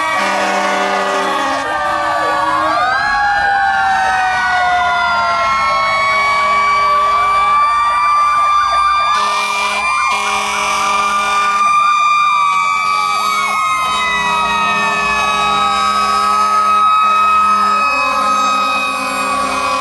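Several fire truck sirens sounding at once, their pitches slowly rising and falling over one another, with repeated blasts of air horns underneath.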